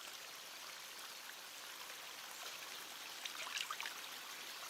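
Faint running water of a stream, a steady rushing hiss, with a few brief sharper sounds about three and a half seconds in.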